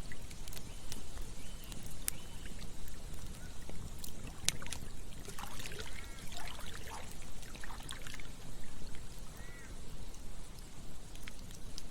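Campfire crackling with scattered sharp pops over the steady rush of a stream, with a burst of water gurgling around the middle.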